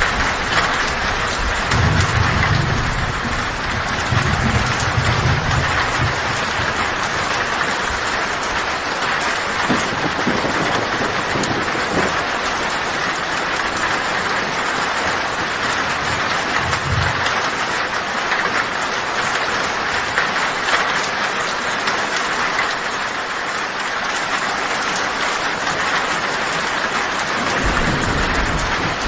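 Heavy rain drumming steadily on a tin roof, with low thunder rumbling a couple of seconds in, briefly in the middle, and again near the end.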